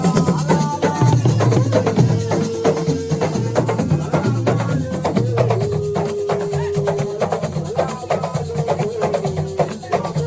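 Assiko percussion music: drums with shakers and rapid clicking wood-block-like strikes in a dense, driving rhythm, with a few long held notes over it.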